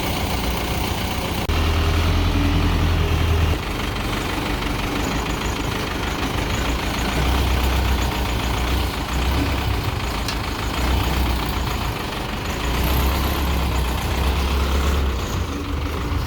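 Heavy vehicle engine running, revving up in several surges over a steady low rumble.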